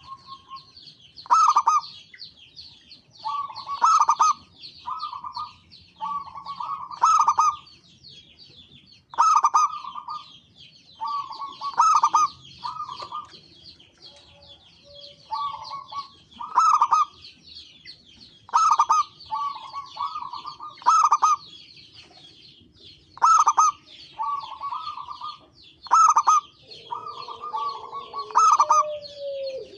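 Zebra dove (perkutut) cooing: a phrase of quick rolling coo notes about every two seconds, over steady high-pitched twittering.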